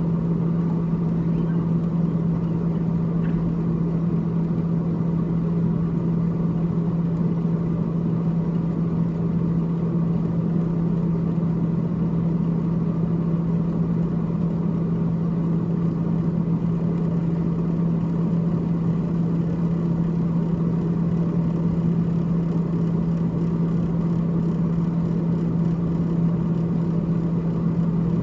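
Freezer fan of a GE GTH18XCTZRBB refrigerator running with a steady low hum and a whir over it.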